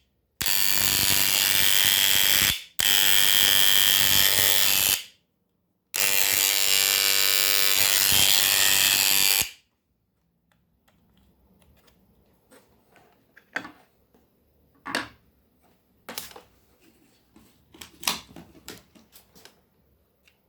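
Electric hair clipper's motor buzzing steadily, switched on and off three times for runs of a few seconds each. After that come light clicks and taps of the clipper being handled.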